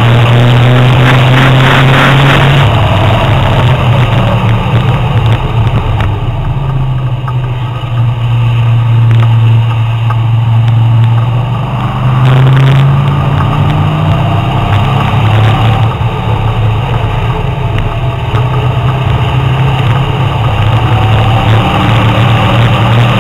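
Car engine heard loud from inside the cabin at speed on a race track, its low note easing off for several seconds and then rising again as the car accelerates, over steady wind and road noise.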